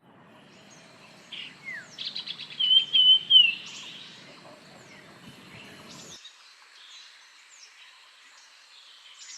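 Common iora calling: a quick run of about eight clipped notes, then a loud wavering whistle, with fainter scattered chirps around it. A low background rumble cuts off suddenly about six seconds in.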